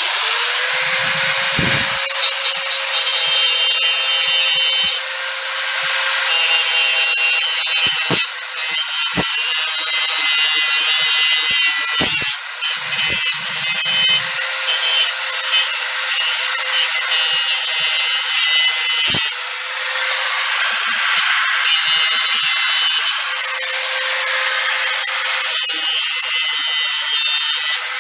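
Electric grinder spinning up and then running steadily, its wheel scraping rust off the steel legs of a Weber barbecue, with a constant whine over the grinding and a few brief dips.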